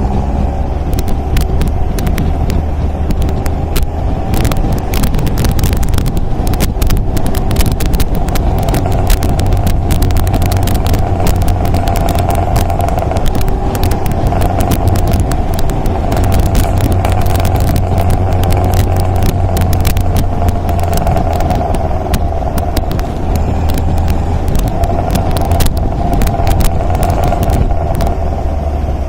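MG MGA roadster's four-cylinder engine running steadily under way, a continuous low drone, with many sharp crackles over it through the middle.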